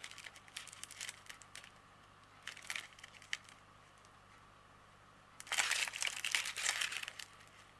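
Small plastic packets of diamond painting drills being handled, crinkling: scattered crackles at first, then a louder stretch of crinkling about two-thirds of the way through.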